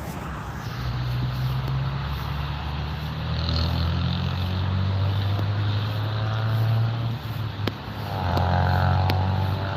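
Aircraft engine noise at an airport: a steady low drone, with a higher whine of several close tones coming in about eight seconds in. Two short sharp clicks come near the end.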